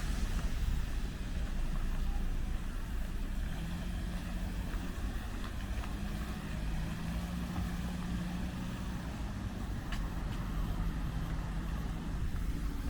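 Street traffic: a motor vehicle's engine running as a low rumble, with a steady low hum through the middle.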